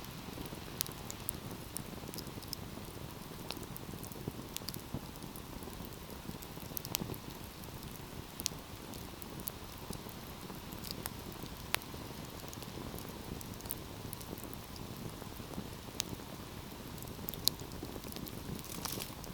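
Wood fire crackling: a steady soft hiss with irregular sharp snaps and pops, a few of them louder than the rest.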